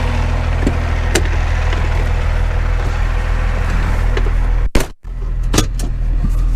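Truck engine idling steadily, with a few sharp clicks over it. The sound cuts out for a moment about three-quarters of the way through.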